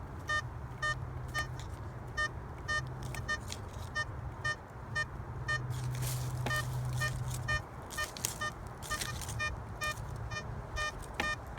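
Blisstool Beast V6 metal detector giving short, repeated beeps, about two to three a second, as it sounds off on a strong target in the dug hole. A few brief scraping noises come in around the middle.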